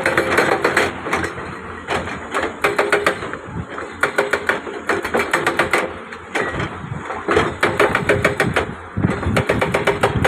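Rapid mechanical hammering, about seven sharp blows a second, that slackens and picks up again several times.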